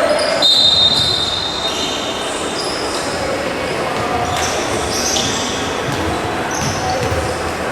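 Basketball game noise in a large arena: a ball bouncing on the court and a steady crowd hubbub, with many brief high-pitched squeaks.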